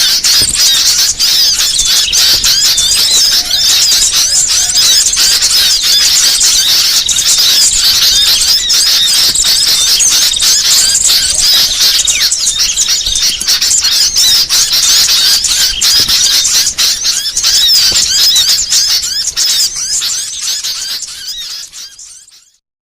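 Dense, continuous high chirping and twittering of many small songbirds. This is a 'masteran burcil' lure recording, used to attract wild birds and to train caged songbirds. It fades out near the end.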